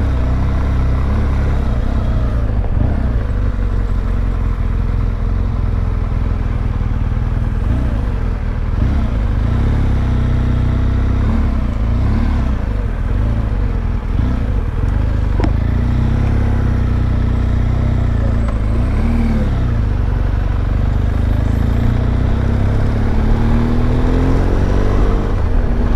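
BMW R1200GS boxer-twin motorcycle engine running while being ridden, its pitch rising and falling with throttle and gear changes and climbing steadily near the end as the bike accelerates.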